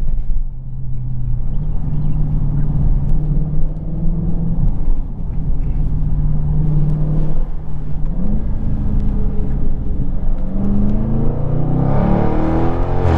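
2020 Dodge Charger Scat Pack's 6.4-litre V8 running on the move, its note held mostly steady. Near the end it climbs in revs as the car accelerates.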